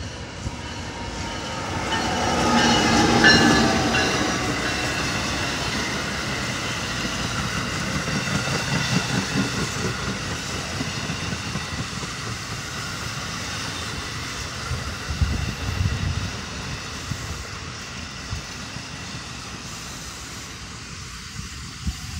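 An ALP-46A electric locomotive passes close by, its whine drifting down in pitch as it goes past, loudest about three seconds in. Then the bi-level commuter coaches roll by with wheels clattering on the rails as the train slows into the station.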